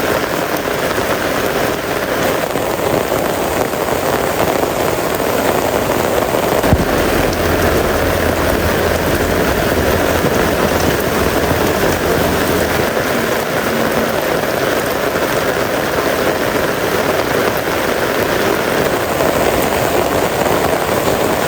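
Heavy rain falling steadily: a continuous hiss of drops hitting surfaces. About seven seconds in, a low rumble joins it for several seconds.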